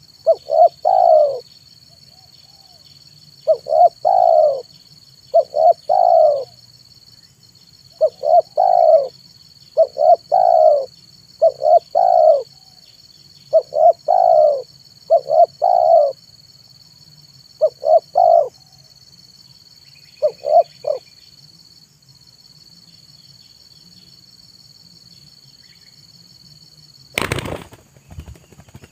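Spotted dove cooing: about ten short phrases of low coo notes, one roughly every two seconds, stopping after about twenty seconds. Near the end a brief loud noise burst breaks in.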